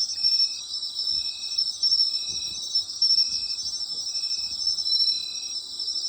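Autumn night chorus of insects: a dense, continuous high-pitched trilling, with one insect calling in a steady rhythm, a short note about once a second.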